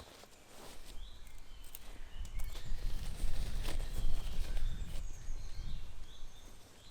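Small birds chirping in short, high, repeated notes over a low rumble that swells from about two seconds in.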